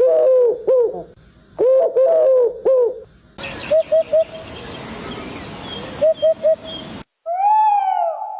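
Several different bird calls follow one another, each cut off abruptly. First come rapid repeated cooing notes. About three seconds in, short calls in groups of three play over a background hiss, with higher chirps. Near the end there is one long call that rises and falls.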